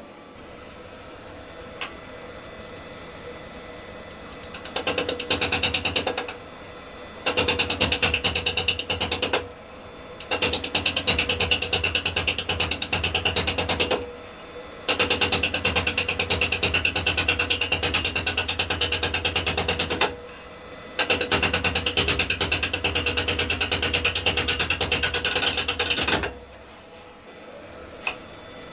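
Wood lathe turning a rowan bowl blank while a gouge makes five cutting passes. Each pass is a fast, even clatter as the tool strikes the uneven, natural-edge blank on every turn, so the cut is interrupted. Between passes only the quieter running lathe is left, with a thin high whine.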